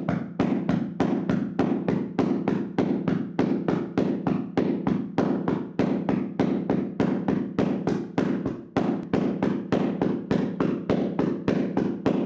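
Hands slapping and tapping on a person's body in a vigorous percussive massage: a rapid, even train of dull slaps, about five a second, with a brief dip in the rhythm a little before the last third.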